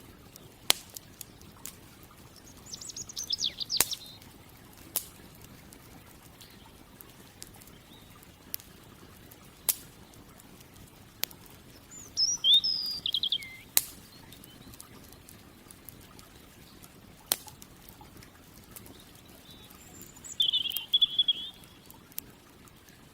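Campfire crackling with scattered sharp pops, and a small songbird singing three short trilled phrases, near the start, in the middle and near the end.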